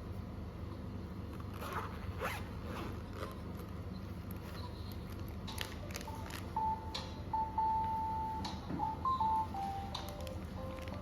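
A few quick swishing, zipper-like rustles with small clicks, then a simple high single-note melody of background music comes in about halfway through.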